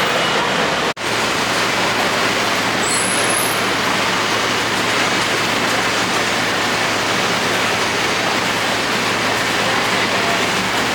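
Steady city traffic noise, an even wash of passing road vehicles with no single engine standing out, broken by a brief cut-out about a second in.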